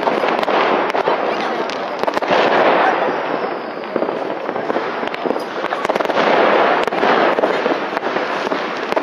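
Fireworks and firecrackers going off all over the city, a dense, unbroken crackle of bangs and rocket bursts overlapping one another.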